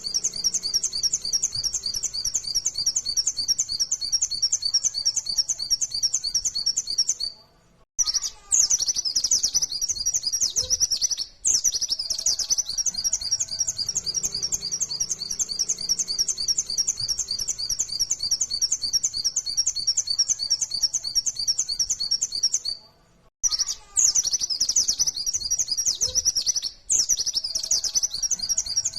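White-eye (pleci) singing a high-pitched, rapid-fire run of notes, a continuous chattering song broken by a few short pauses; the same stretch repeats, as in a looped lure recording.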